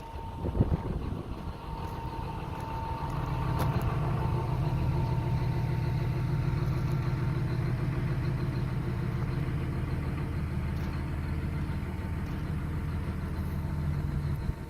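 John Deere 250G excavator's diesel engine running steadily, picking up and getting louder over the first few seconds, then holding. There are a few knocks about a second in.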